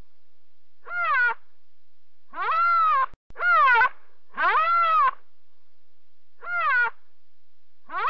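An animal's high calls, each rising and then falling in pitch, about five in all and some shorter than others. The same call repeats exactly, like a looped sound effect.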